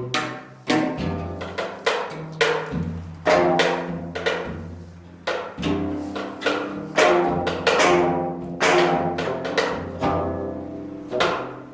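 Korean zither music (gayageum or geomungo): a string of single plucked and struck notes, each sharp at the attack and ringing away before the next, with deep low notes among them.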